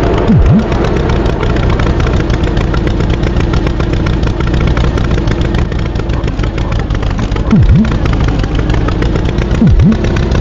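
Tractor engine sound effect running steadily with a dense rumble. Three short low swoops dip and come back up in pitch: one about half a second in and two near the end.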